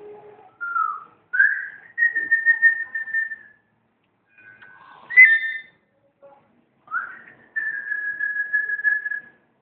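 Two long, steady whistled notes, each opening with a quick upward slide, with a short chirp between them.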